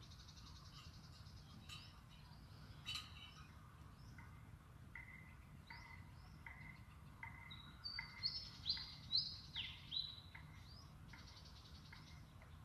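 Small birds calling: a run of short chirps about two a second from about five seconds in, with a few louder falling high notes about eight to ten seconds in, over a faint low background rumble.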